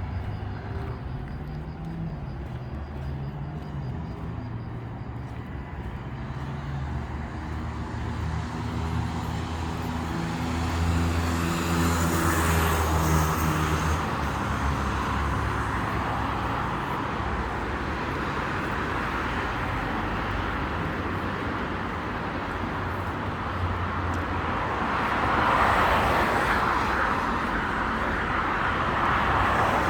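City road traffic: a steady wash of cars going by, with two louder swells of passing vehicles, one around twelve seconds in and one near the end.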